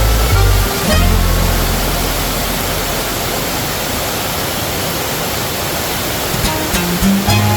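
Steady rushing of a large waterfall. Background music with a bass line plays over it; the music drops out for a few seconds in the middle and comes back near the end.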